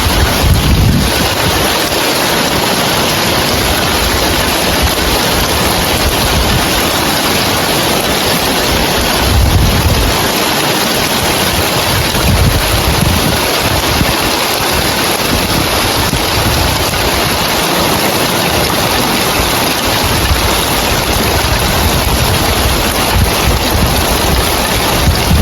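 Heavy rain falling steadily on roof tiles, a dense even hiss. Low wind rumbles on the microphone swell up a few times.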